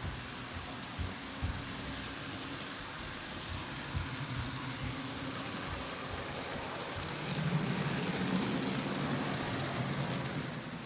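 N scale model train (Athearn F59 locomotive pulling coaches) running on the layout track: a steady whirring hiss with irregular low clicks and knocks, growing into a louder low rumble about seven seconds in.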